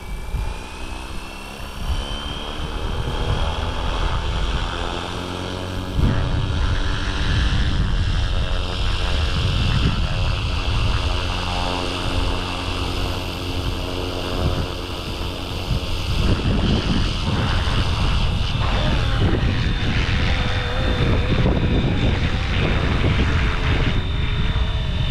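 Electric Flywing Airwolf RC helicopter rotor spooling up at takeoff: a whine that rises in pitch over the first few seconds, then settles into a steady whine and blade hum as it hovers. Wind gusts buffet the microphone underneath.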